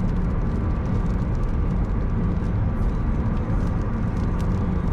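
Steady road and engine noise heard inside a moving car's cabin: a constant low rumble with faint, irregular light ticks over it.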